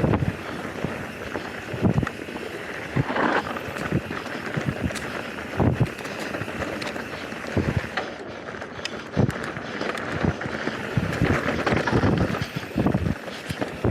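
Mountain bike descending a dirt trail: tyres rolling over dirt and rocks under a steady rush of wind noise, with frequent irregular knocks and rattles as the bike hits bumps.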